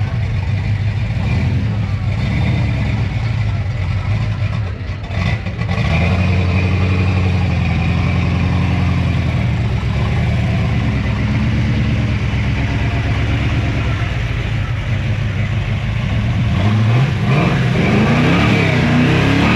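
A truck engine running steadily at a low pitch, then revving with its pitch rising and falling several times near the end.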